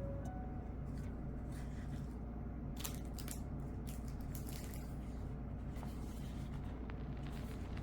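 Faint rustling and light clicks of paper and packaging being handled, with a few louder crinkles about three seconds in, over a steady low hum.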